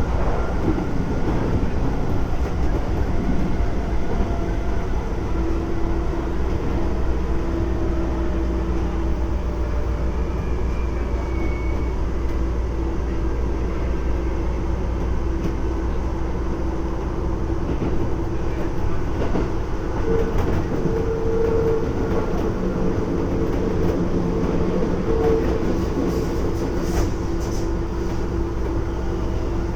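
Keisei 3400 series electric train running at speed, heard from inside the car: a continuous rumble of wheels on rail with a steady motor hum that comes in about five seconds in, and a few sharp clicks near the end.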